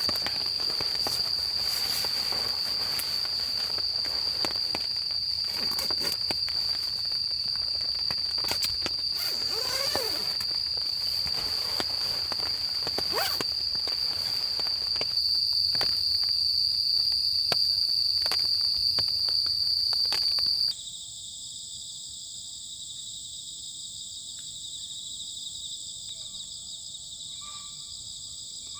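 Autumn insects trilling in one steady high, unbroken tone, with scattered clicks and rustles over it. About two-thirds of the way in, the sound cuts to a quieter stretch where several other insects trill at different high pitches.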